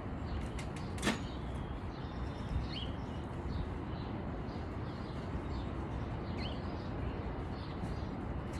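Steady outdoor background noise with one sharp knock about a second in and a couple of faint short chirps.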